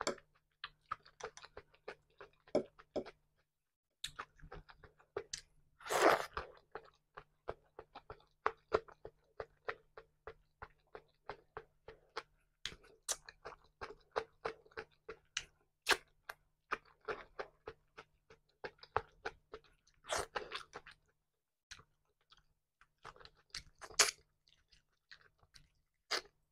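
Close-miked chewing of tilapia fish and shredded cabbage salad: a run of quick, crisp crunches and wet mouth clicks. Louder crunches come about six seconds in, about twenty seconds in and near the end.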